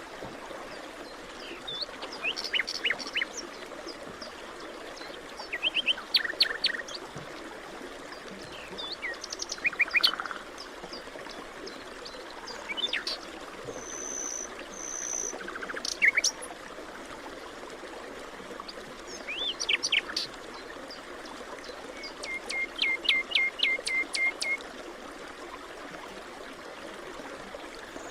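Several wild birds calling in a forest over a steady background hiss. Short chirps and whistles are scattered throughout, and near the end one bird gives a quick run of about eight repeated notes.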